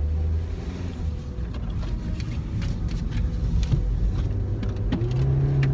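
Car engine running with a steady low drone, a deeper, stronger engine tone coming in about five seconds in.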